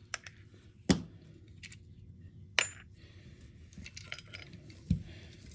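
Small metal tools and parts clinking and tapping against an airsoft rifle during disassembly. A few sharp clicks, the loudest about a second in, then a ringing metallic clink a little past two and a half seconds in, and a soft knock near the end.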